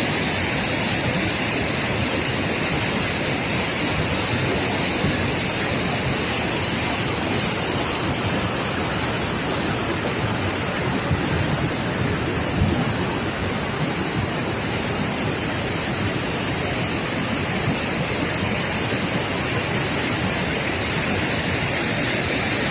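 Waterfall water rushing as a steady, even noise.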